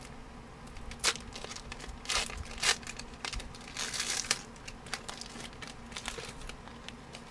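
A trading-card pack wrapper being torn open and crinkled by hand, in a string of short crackling bursts.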